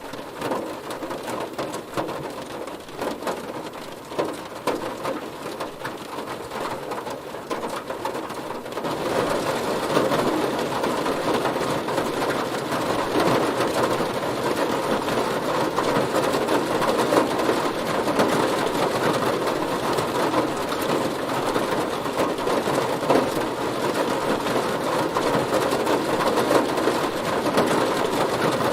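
Heavy rain pattering on a car, a dense steady hiss of drops that grows heavier and louder about nine seconds in.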